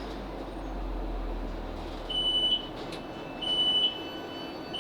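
Door warning beeps of a Class 458 electric train stopping at a station: three short high beeps about a second and a half apart, as the doors are released. Before them the train's low running rumble dies away as it comes to a stand.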